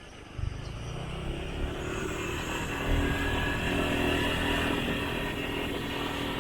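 Motorcycle engine running, kicking in suddenly about half a second in and growing louder over the next couple of seconds, then holding steady.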